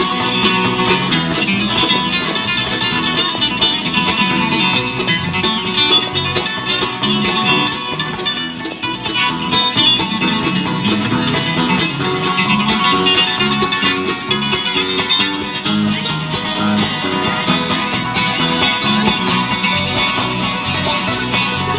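Bluegrass instrumental break: acoustic guitar and banjo picking over a steady bass.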